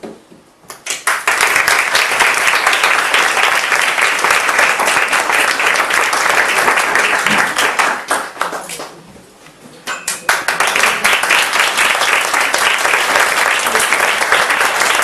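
Audience applauding at the end of a story, with many hands clapping together; the clapping dies down about halfway through and then picks up again.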